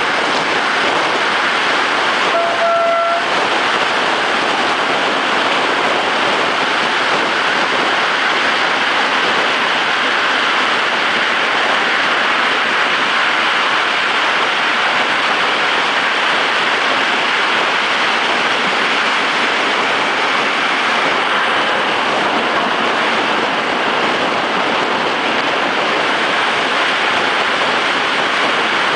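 Regional passenger train running at speed, heard from an open window: a steady, loud noise of wind and running gear. A brief tone sounds once, about three seconds in.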